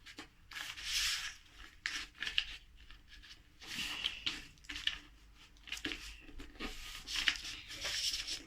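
A sheet of letter-size paper being folded and its crease rubbed down by hand: irregular rustles and scrapes of paper.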